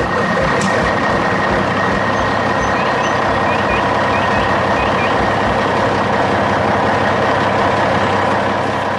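Heavy dump truck engine running steadily, with a constant high-pitched tone over it.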